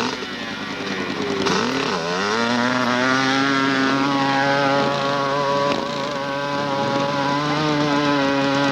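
Hillclimb motorcycle engine at full throttle: the pitch dips, then rises about two seconds in and holds high and steady as the bike pulls hard, falling away right at the end.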